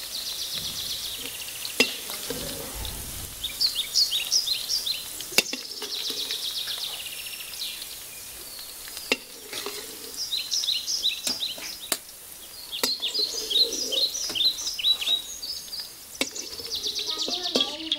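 Chopped okra sizzling in hot oil in a steel kadai, with a perforated spatula scraping through it and striking the pan a few times as the okra is stirred and lifted out.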